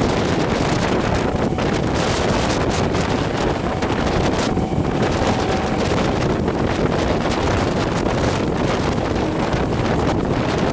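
Wind buffeting the microphone at the open door of an electric multiple unit (EMU) local train running at speed, over the steady rumble of its wheels on the rails, with irregular knocks through it.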